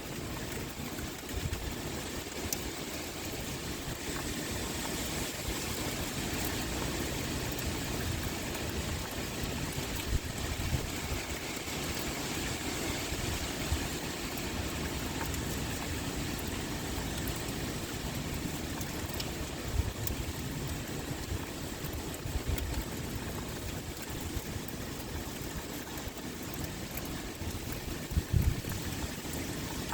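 Steady pouring rain with wind, a dense even hiss, with brief low rumbles about twenty seconds in and again near the end.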